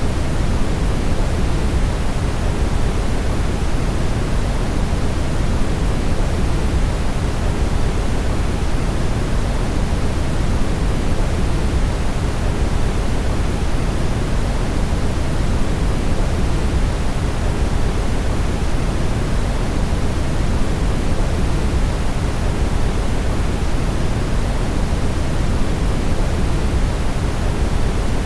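Steady brown noise: an even, unchanging rumbling hiss, strongest in the bass and fading toward the treble, with no events or rhythm.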